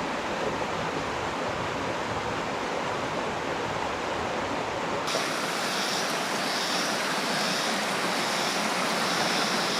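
Running stream water, a steady rushing. About halfway through there is an abrupt change: the deep part of the sound falls away and a steady high-pitched hiss joins the flow.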